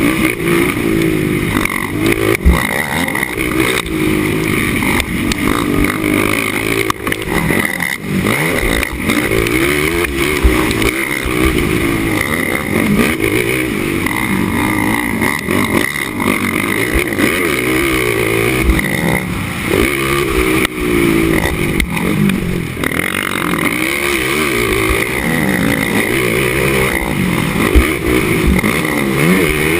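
Racing ATV engine at race pace, its pitch rising and falling over and over as the throttle is worked and released, with occasional sharp thumps.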